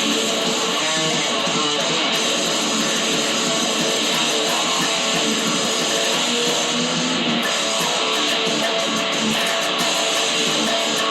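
Music played on guitar, with strummed chords at an even level throughout.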